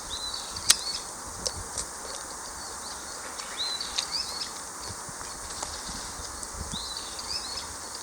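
A songbird singing three short phrases of quick, high, arching notes about three seconds apart, over a steady outdoor hiss. A few sharp snaps cut in, the loudest about a second in.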